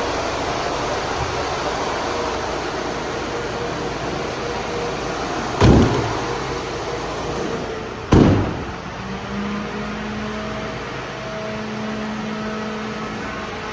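Steady mechanical hum and hiss of a Ford Transit van, broken by two loud thumps about two and a half seconds apart, the second ringing briefly.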